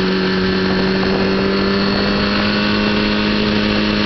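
A 2003 Kawasaki Ninja ZX-6R's 636 cc inline-four engine running at steady, moderate revs while riding, its note creeping slightly higher in pitch, with wind noise on the microphone.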